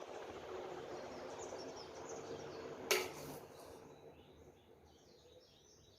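A restored 1970s Crompton Greaves High Breeze 48" ceiling fan running with a steady rush of air. A click about three seconds in marks it being switched off, and the air noise fades away as it starts to spin down on its freshly replaced bearings. Faint bird chirps follow near the end.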